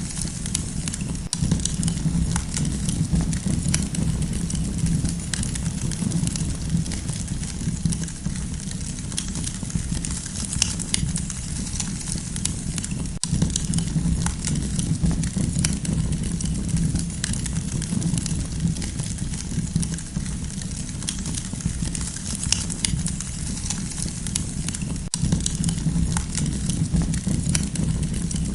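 Campfire burning steadily, with a continual scatter of small crackles and snaps over a low steady rumble of the flames.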